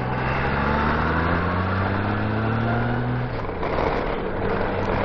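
Honda Gold Wing F6B flat-six engine pulling under acceleration, its note rising steadily for about three seconds, then dropping and holding at a lower steady pitch, with wind and road noise throughout.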